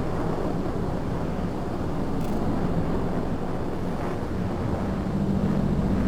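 A steady low rumbling drone like a running engine, with a few faint pitched lines that grow stronger about five seconds in.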